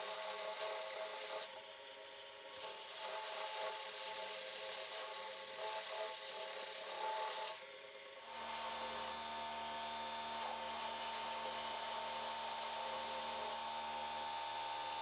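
Milling machine running with a cutter working through steel, uneven with steady tones running through it; about eight seconds in it changes abruptly to a steady machine hum.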